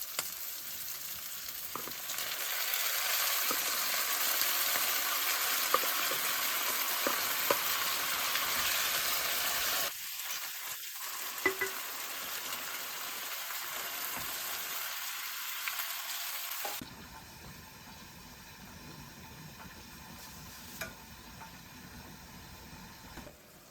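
Meat sizzling in hot fat over a fire, a dense hiss with scattered sharp pops and spits. The sizzle drops in level suddenly about ten seconds in and again about two-thirds of the way through.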